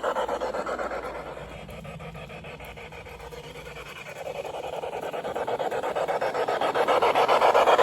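Aristo-Craft 0-4-0 G-scale model locomotive and its coaches running on garden railway track, a fast, even rhythmic pulsing. It fades about a second in as the train moves away, then grows louder again from about four seconds as it comes back round the loop.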